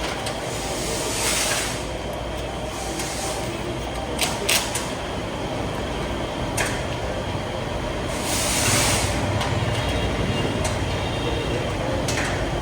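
Workshop noise: a steady background hum with two hissing bursts and a few sharp clicks and knocks.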